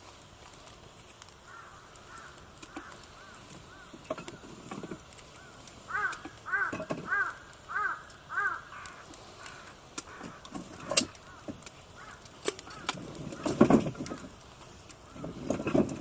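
A crow cawing, a run of about seven short calls in quick succession in the middle, with fainter caws around it. Scattered sharp clicks and a few low knocks toward the end.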